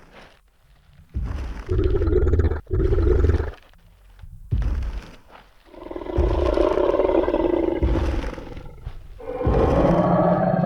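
Tyrannosaurus rex roar sound effect: a pair of deep roars early on, a short deep boom about halfway, then a long roar about six seconds in and another, with a steady low tone, starting near the end.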